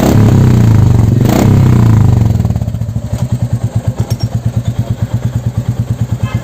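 Royal Enfield Classic's single-cylinder engine running through a newly fitted Motowing aftermarket silencer. It is held at raised revs at first, then about two seconds in drops back to idle with a steady, even thump of about eight beats a second.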